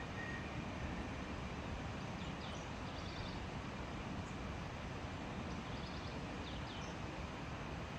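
Steady outdoor background noise, heaviest in the low end, with two short runs of faint high bird chirps, about two and a half seconds in and again past the middle.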